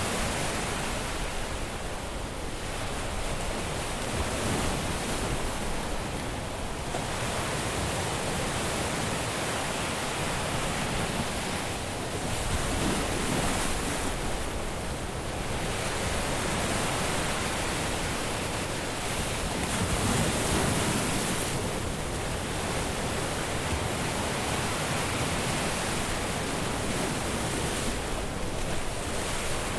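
Caribbean sea waves washing onto a beach, a continuous surf hiss that swells and eases every few seconds as waves break and run up the sand.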